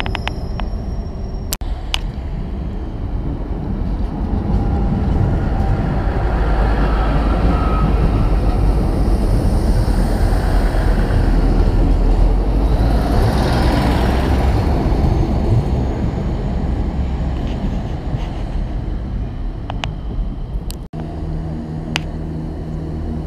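Diesel trains running through a station: a continuous rumble of engines and wheels on rail that builds to a peak about 13 seconds in as a multiple unit passes close by. Near the end the sound cuts to a steadier diesel engine note.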